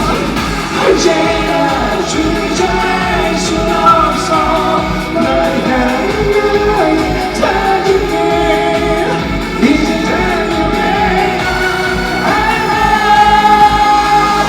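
Live band playing a pop-rock song over a steady drum and bass beat, with sung vocals.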